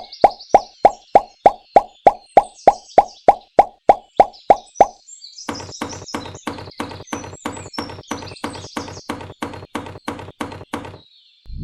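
Cartoon plopping sound effect repeated evenly, about four pops a second, with short high chirps above it. About five seconds in it changes to a softer, duller run of pops at the same pace, which stops shortly before the end.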